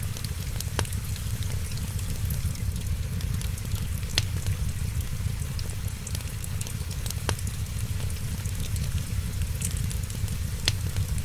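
Wood fire crackling steadily over a low rumble, with a few louder sharp pops spread through it.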